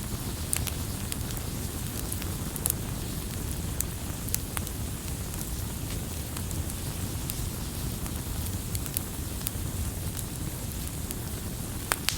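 Wood fire crackling: irregular sharp pops and snaps over a steady low rumble of burning, with a louder pop near the end.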